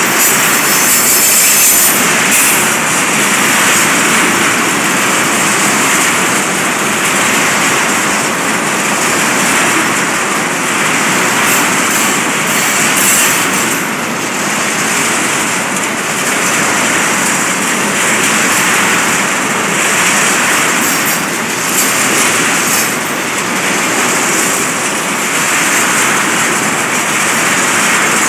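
Freight train of tank cars passing close by at speed: a loud, steady rush of steel wheels running on the rails, with slight swells as the cars go by.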